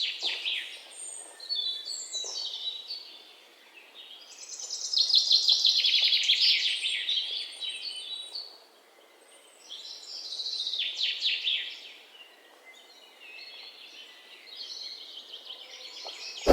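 Birdsong: several phrases of rapid, high chirping trills with short pauses between them.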